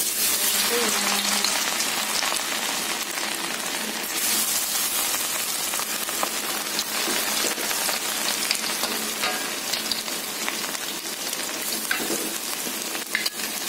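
Cubes of tempeh sizzling as they deep-fry in hot oil in a wok. The sizzle starts suddenly as they go in, and a metal spatula stirring them adds occasional clicks.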